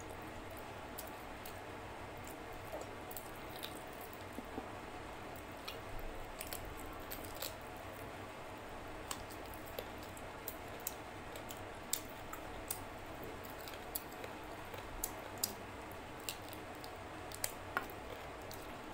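Close-up chewing and wet mouth smacking of someone eating chicken leg curry with their fingers: scattered short sharp clicks over a steady low hiss.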